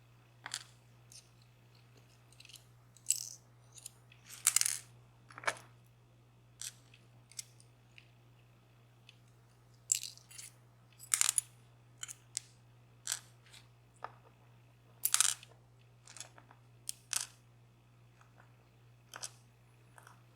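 Small metal pins and springs from a DOM Plura lock being handled and set down during disassembly: irregular light clicks and clinks, with a few longer rattles, over a low steady hum.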